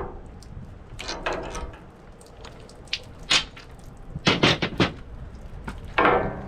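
Sharp metallic clanks and knocks of hand tools and steel parts as a fitting is worked off an excavator's hydraulic cylinder. The fitting had a little trapped hydraulic pressure behind it. The loudest clanks come about four seconds in and again near the end, some ringing briefly.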